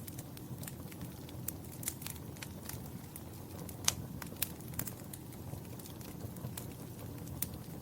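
Wood fire crackling in a fireplace: irregular sharp pops and snaps, the loudest about four seconds in, over a steady low rumble of burning.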